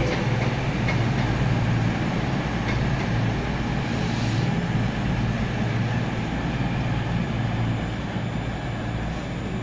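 A train at the station platform giving a steady low hum over a broad rumbling hiss, slowly getting a little quieter.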